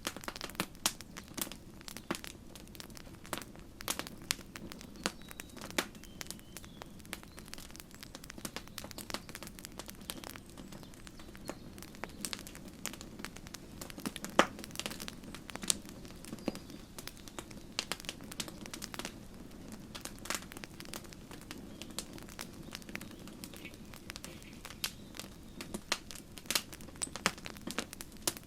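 Campfire crackling and popping: irregular sharp snaps, a few louder pops among them, over a steady low rumble of the burning fire.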